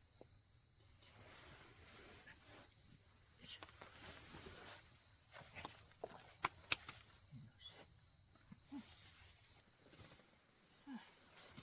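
Night insects, crickets by their sound, trilling in one unbroken high-pitched chorus. Scattered faint clicks run through it, and two sharp clicks come close together a little past the middle, the loudest sounds here.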